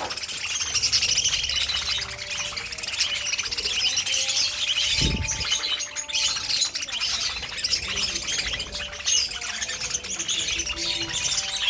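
A flock of budgerigars chattering and chirping continuously, with a brief low thump about five seconds in.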